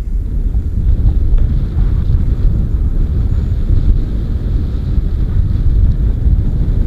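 Wind buffeting the microphone: a loud, gusty low rumble that swells and drops unevenly throughout.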